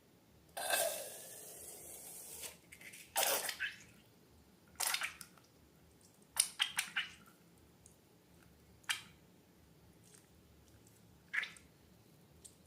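Slime being handled in a series of irregular wet squishing and squelching sounds: a longer one lasting nearly two seconds about half a second in, then about five shorter ones spread out.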